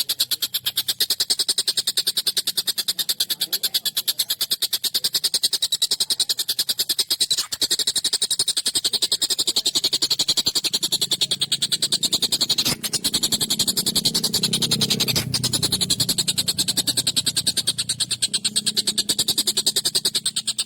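Tengkek buto (collared kingfisher) calling in an unbroken, very fast rattle of harsh repeated notes, many per second.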